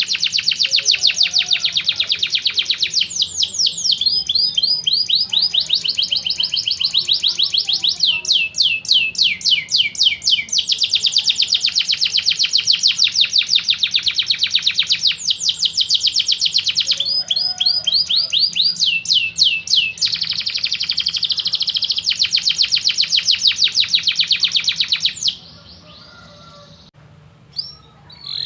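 Domestic canary singing a long song of fast rolling trills, phrase after phrase at changing speeds and pitches, which breaks off near the end.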